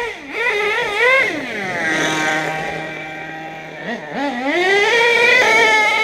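Small nitro RC truck engine running at high revs as the truck is driven, its pitch climbing and falling with the throttle, easing off in the middle, then revving high again near the end.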